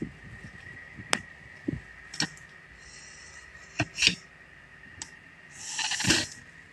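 Scattered sharp clicks and knocks from work on an aluminium window frame, with a short hissing scrape about six seconds in.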